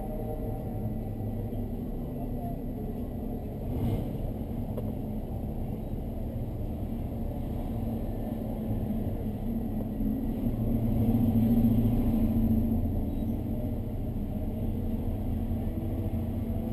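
Race car engine running steadily, growing louder for a few seconds about ten seconds in, with a single sharp knock about four seconds in.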